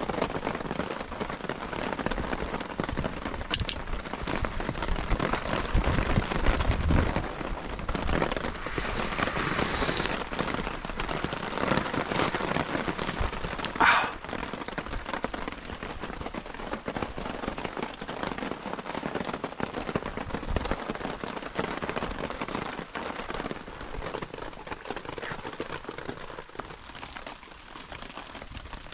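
Steady rain falling on a Hilleberg tarp, a dense hiss made of many small drop hits. One brief sharp sound stands out about halfway through, and the rain grows slightly quieter near the end.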